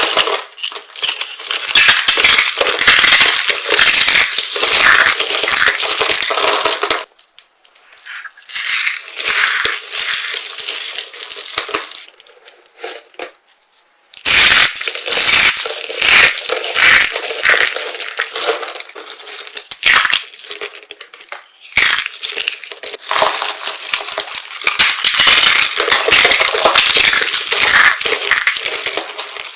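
Dry soap being crushed by hand, a dense crunching crackle of many small breaks as it crumbles. It eases to a quieter, sparser crackle about a third of the way in, then turns loud and dense again about halfway through.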